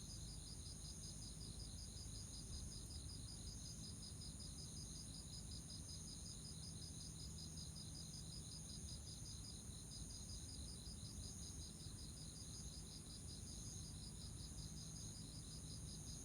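Autumn insects singing together without a break. One sings in rapid, evenly repeated pulses, while others hold steady high trills above it.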